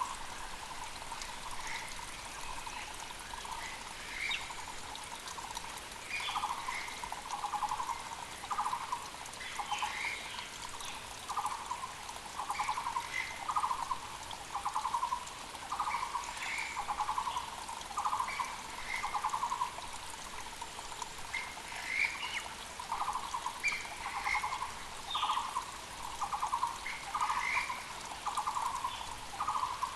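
Muller's barbets calling: a loud low note repeated steadily, somewhat more than once a second, over the short, higher calls of other forest birds and the steady rush of a mountain creek.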